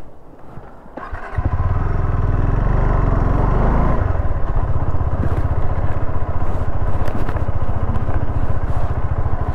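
Motorcycle engine running, suddenly growing louder about a second in as it is throttled up, then running steadily.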